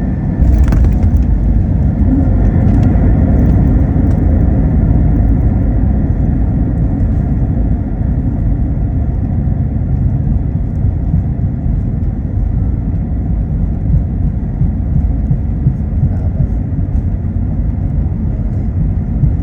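Heavy low rumble inside an Airbus A321 cabin during the landing rollout. A sharp jolt about half a second in is followed by a steady roar that eases a little after about eight seconds.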